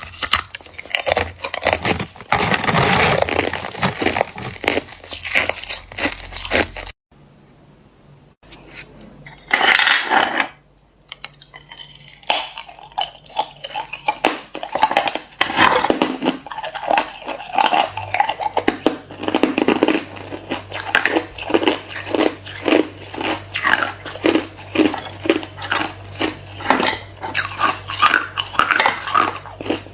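A person biting and chewing hard clear ice close to the microphone: a dense run of sharp crunches, a short lull about seven seconds in, then steady crunching at about two bites a second.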